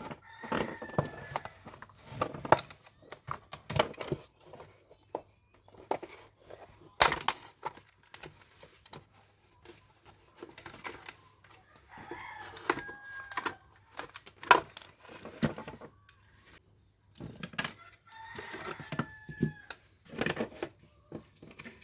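Sharp irregular clicks, cracks and knocks of a plastic Bluetooth speaker casing being pried open and taken apart. Three drawn-out calls, each about a second long, sound in the background: near the start, about halfway through, and near the end.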